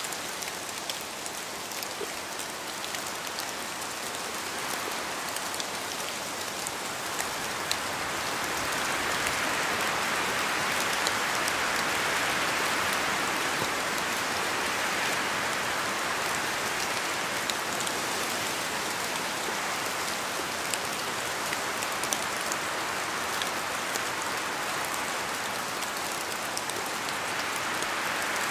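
Steady rain falling, a dense patter of raindrops with scattered sharper drip ticks. The rain grows heavier about a third of the way in, then eases a little.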